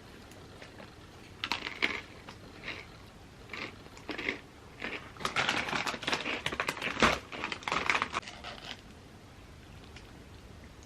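Chips and their bag crinkling and crackling as they are handled close to the microphone: scattered crisp crackles, thickest in the second half, with one sharp snap.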